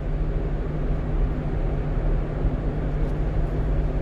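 Steady engine hum and road noise inside the cab of a one-ton truck driving at speed.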